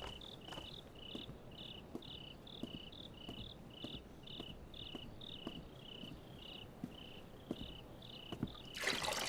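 Crickets chirping steadily, about three short high chirps a second alternating between two close pitches, over faint soft ticks. Near the end a louder burst of rushing noise comes in.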